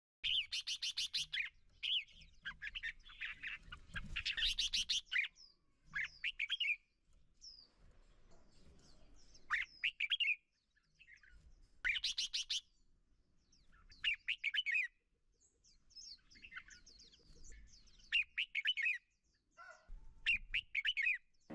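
Birds chirping in repeated bursts of fast, high trills, with short pauses between the bursts.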